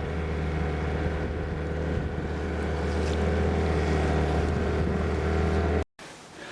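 Steady machine hum, a low drone with a mains-frequency buzz that slowly grows louder, then cuts off abruptly near the end.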